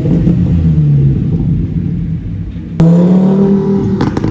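A sports car's engine running, then suddenly revving hard about three seconds in, its pitch climbing, with a few sharp cracks near the end.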